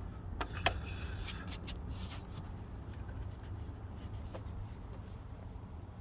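Fingers rubbing and tapping fabric powder into carpet fibres over the glued burn hole, with a cluster of sharp clicks and scratchy strokes in the first two seconds or so and only a few faint ones after, over a steady low hum.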